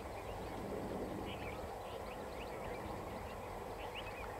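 Steady low rumble of a distant diesel-hauled passenger train running. Birds chirp over it in short rising calls, in a cluster about a second in and again near the end.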